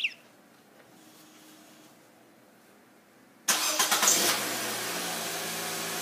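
A short electronic chirp, then about three and a half seconds in the 2016 Nissan Versa's four-cylinder engine cranks and fires on a remote start, settling into a steady idle.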